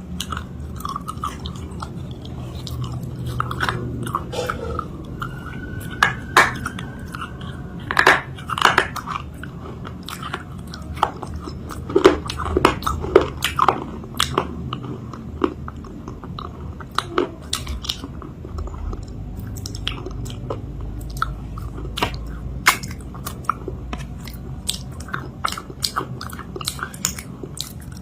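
Close-miked biting and chewing of a cake made of chalk paste, with irregular sharp crunches throughout.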